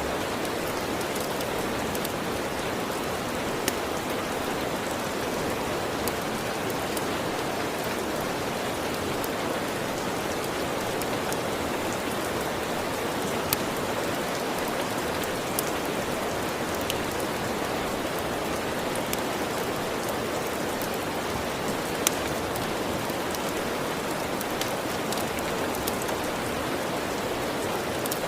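Steady, even rainfall, with a few sharp isolated pops from a crackling fireplace now and then.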